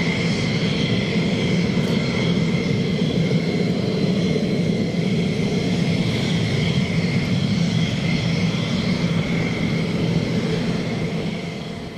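Jet aircraft engine running: a steady roar with a high whine, fading out near the end.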